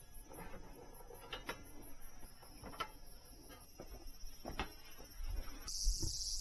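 A few faint, scattered clicks and knocks, then a steady high-pitched insect chorus of crickets or cicadas that starts abruptly near the end.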